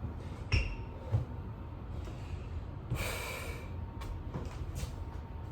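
A person breathing hard in the middle of a burpee set, with one forceful exhale about three seconds in. Two low thuds near the start come from hands and feet landing on the floor.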